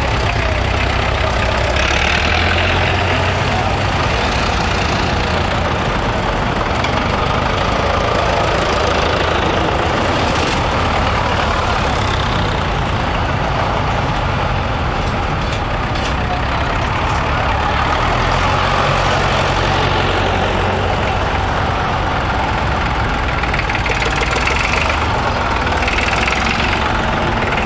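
Several tractor engines running together at idle, a steady low mechanical chugging.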